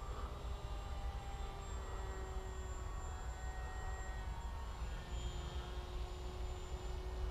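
Electric motor and propeller of a Bixler RC plane running, a steady whine whose pitch shifts slightly now and then, over a constant low rumble.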